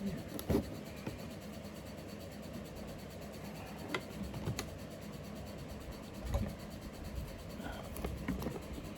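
Faint handling noise: a few light knocks and scrapes scattered over a low steady background hum.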